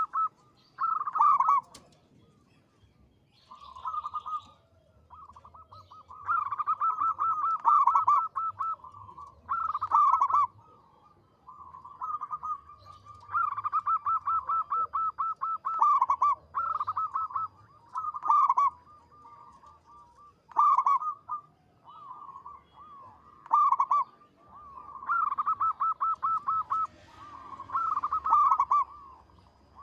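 Zebra dove (perkutut) cooing: phrases of fast, rattling notes, repeated every second or two with short gaps between them.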